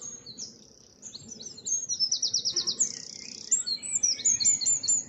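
Eurasian wren singing: a long, high song of rapid trills and quick notes, starting about a second in and breaking off near the end.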